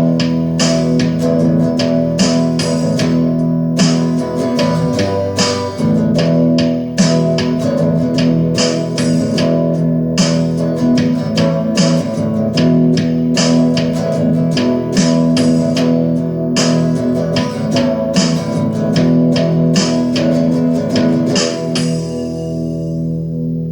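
Guitar music: chords played with regular sharp attacks over sustained ringing notes, with no singing. The playing thins out and gets a little quieter near the end.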